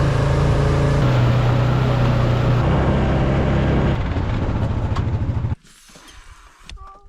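Kei truck's engine running steadily with a low hum, stopping abruptly about five and a half seconds in.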